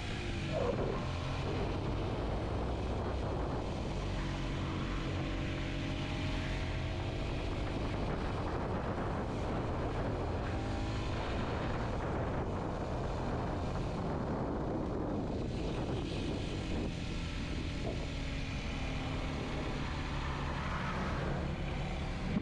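Kawasaki Z125's small single-cylinder four-stroke engine running under way, its note rising and falling with the throttle, over steady wind noise.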